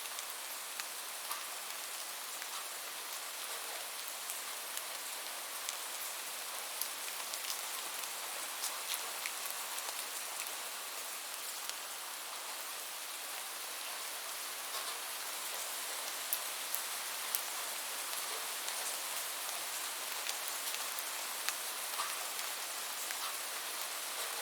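Steady rain falling, an even hiss scattered with many sharp individual drop ticks.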